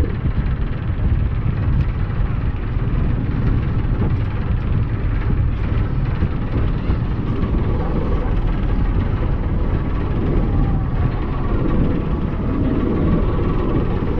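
Steady low rumble of the 1951 ferry Thomas Rennie under way, with no breaks or changes.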